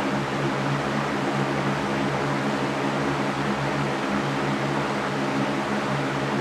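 Electric fan running steadily: an even rushing noise with a low motor hum, unchanging throughout.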